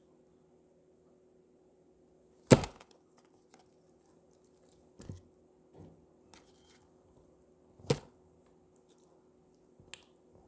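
Slime being played with close to the microphone, giving a few sharp pops and slaps. The loudest comes about two and a half seconds in, another strong one near eight seconds, and softer ones in between.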